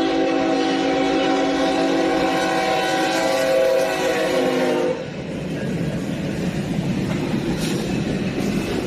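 Train horn sounding one long chord of several tones, held for about five seconds and then cut off. After that comes the steady rumble and rattle of the train running on the rails.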